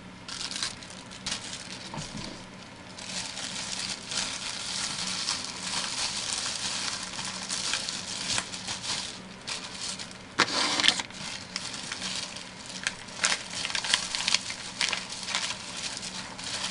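Plastic wrapper crinkling and crackling as it is handled and packed, in irregular bursts with a louder spell about ten and a half seconds in, over a faint steady hum.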